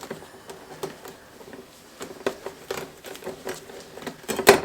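A steel circular saw blade being scrubbed with a stainless steel scrubbing pad to take off rust: irregular scratching strokes, with a louder knock near the end.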